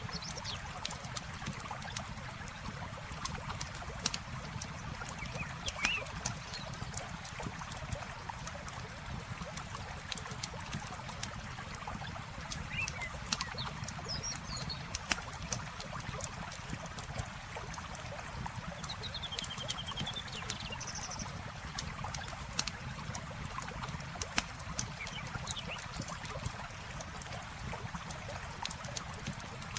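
Campfire crackling and popping in scattered sharp snaps over the steady rush of flowing river water, with a few short bird chirps.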